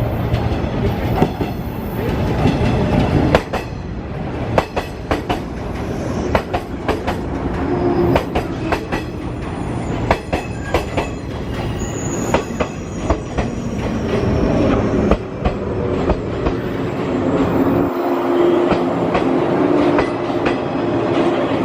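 A train running on the tracks at a railway station, its wheels clicking over rail joints and points again and again over a steady rumble, with a low steady tone underneath in the second half.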